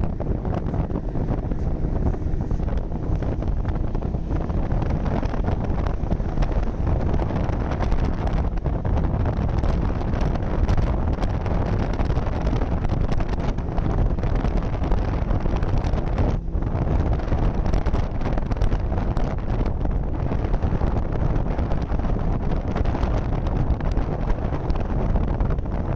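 Steady wind noise buffeting the microphone on a moving snowmobile, with the snowmobile's engine running underneath.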